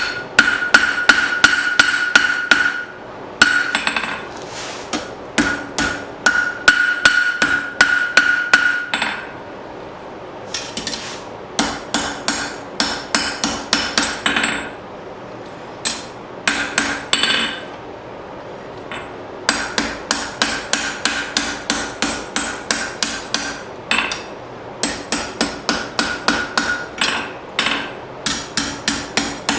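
Blacksmith's hammer striking steel bar stock on an anvil in runs of quick blows, a few a second, broken by short pauses; the anvil rings with a clear high tone under the strikes.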